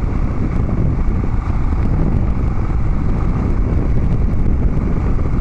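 Harley-Davidson Dyna Street Bob V-twin running on the road through Vance & Hines Big Radius 2-into-2 exhaust, a steady, mostly low exhaust note, with wind buffeting the microphone.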